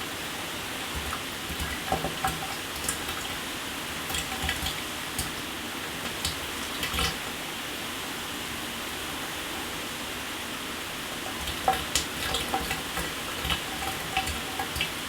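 Shower running: a steady hiss of falling water, with irregular sharper splashes and drips in two spells, from about two to seven seconds in and again from about eleven seconds in.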